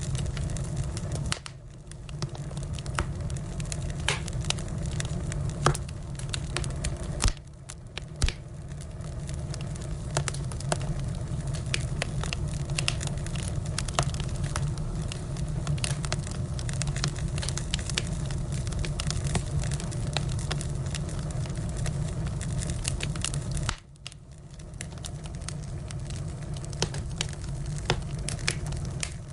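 Firewood burning with a steady crackle and frequent sharp pops over a low rumble. The sound drops away briefly three times.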